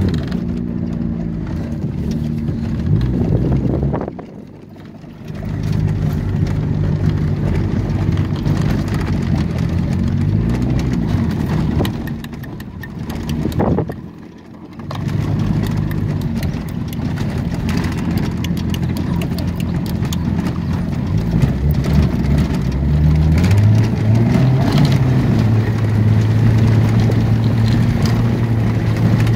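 Hyundai car's engine heard from inside the cabin, running steadily. Its sound drops away briefly twice, about four seconds in and again near halfway. Later it climbs to a higher steady pitch and holds there.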